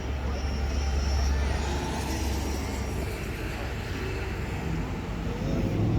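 A car engine running with a deep low rumble, strongest in the first three seconds and then easing off into a steadier background.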